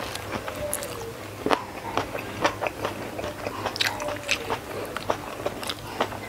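Close-miked eating sounds: chewing and crunching on shell-on shrimp with rice in spicy sambal, with irregular sharp mouth clicks and crunches, a few louder ones about one and a half, two and a half and four seconds in.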